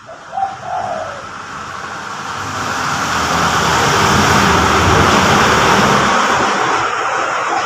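A dove coos briefly, then a passing motor vehicle swells up, loudest about five seconds in, and fades away near the end, drowning out the birds.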